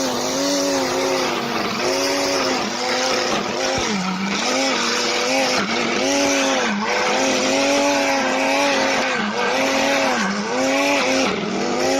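Homemade electric lawn mower running, its electric motor spinning a trimmer-line reel with a steady whine. The pitch sags and recovers every second or so as the spinning line cuts into grass and loads the motor, over a hiss of line and clippings.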